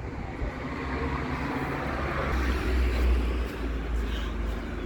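A road vehicle passing, its engine rumble and road noise swelling to a peak a couple of seconds in and then easing off.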